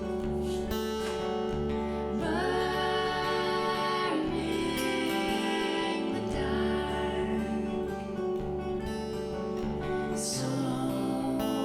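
A song: a voice singing over acoustic guitar, with sung phrases coming in about two seconds in and again near the end.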